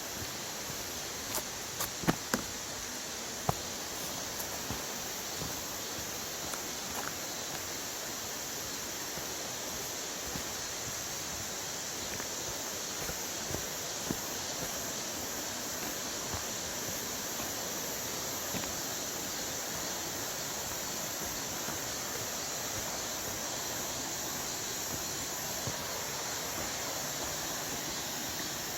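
Mountain stream rushing steadily over rocks, with a few sharp clicks about two seconds in.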